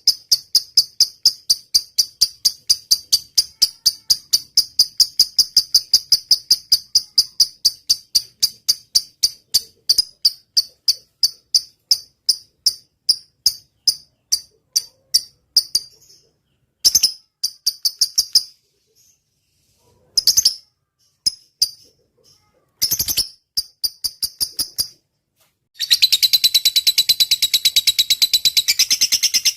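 Lovebird singing a long 'ngetik' (typing) series: fast, even, high-pitched ticking notes at about five a second, which thin out after about fifteen seconds into a few short bursts with pauses, then break into dense, continuous high chatter near the end.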